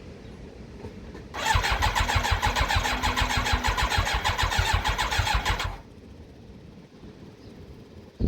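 Electric starter cranking the Yamaha YZF1000R Thunderace's inline-four engine for about four seconds without it catching, in an even pulsing rhythm, then stopping abruptly. The cranking is priming the freshly rebuilt carburettors, drawing fuel into the float bowls.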